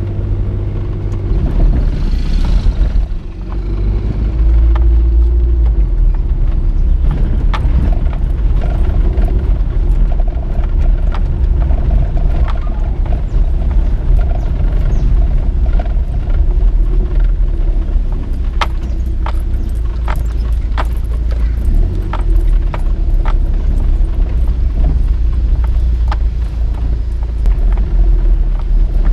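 Motor vehicle on the move: a heavy, steady low rumble with an engine hum that drifts up and down in pitch, and many short knocks and rattles throughout.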